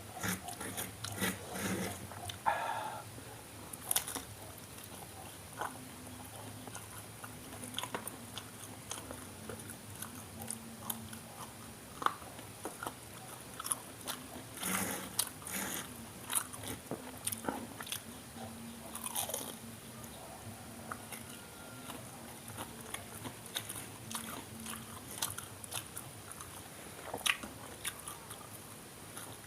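Close-miked eating of crisp fried tofu and tempeh fritters: crunchy bites and chewing, heard as irregular clusters of crackles and clicks.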